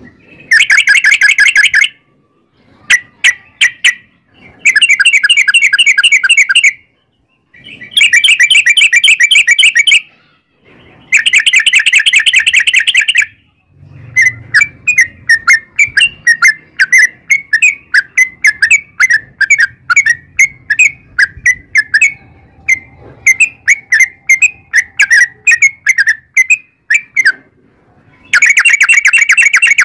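Yellow-vented bulbul (trucukan) singing loud, rapid chattering phrases about two seconds long with short gaps between them. About halfway through this gives way to a long, quick series of separate bubbling notes, then a final chattering phrase near the end.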